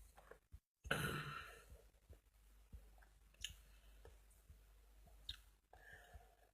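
A person tasting a drink: a breathy exhale about a second in, then a few faint mouth clicks and swallows.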